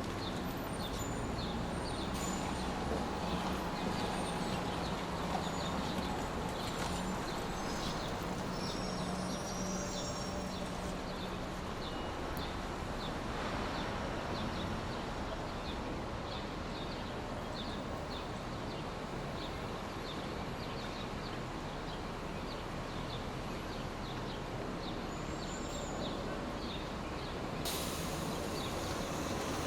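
Steady rushing noise of a sleep-sound noise track, with a faint quick ticking above it and a faint low hum in the first part.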